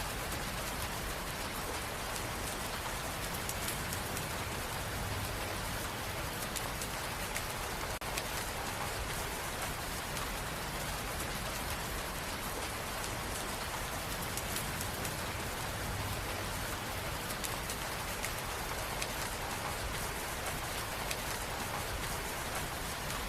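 Steady rain: an even, continuous hiss with faint scattered drop ticks.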